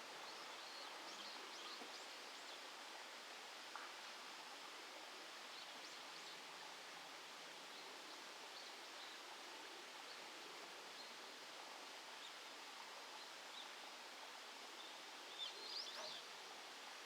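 Faint outdoor ambience by a fishing pond: a steady soft hiss with a few brief high bird chirps, a small cluster of them near the end.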